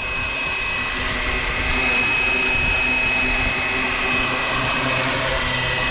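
Fly Wing BO 105 electric RC helicopter flying: the steady high whine of its brushless motor and drive, over the whir of the rotors, growing a little louder over the first couple of seconds and then holding steady.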